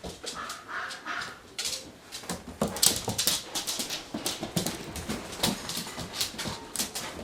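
Coyote whimpering a few short times, followed by a rapid run of scratchy clicks and rustling as she scuffles about.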